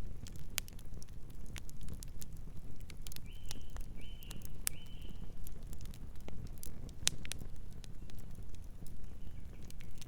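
Campfire crackling: sharp, irregular snaps of burning wood over a low rumble, with three short high calls spaced less than a second apart about a third of the way in.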